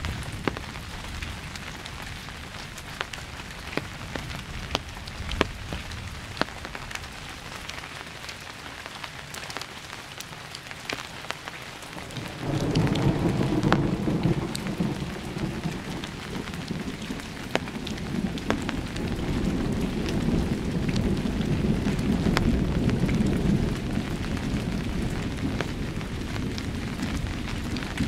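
Steady rain with sharp drops pattering on a surface. About twelve seconds in, a long low roll of thunder starts and rumbles on for more than ten seconds before easing off.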